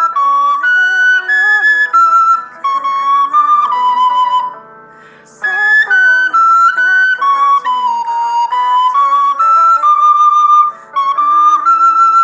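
Recorder playing a slow ballad melody in clear, held and stepping notes, over a softer accompaniment. It pauses briefly for a breath between phrases about four and a half seconds in.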